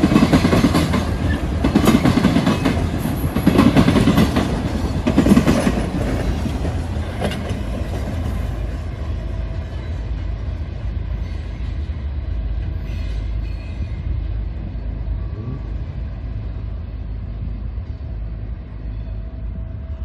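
Loaded coal train's wheels banging over railroad diamond crossings, a heavy clatter of impacts in groups every second or two over a deep rumble. About six seconds in the banging stops and the rumble fades steadily as the last cars roll away.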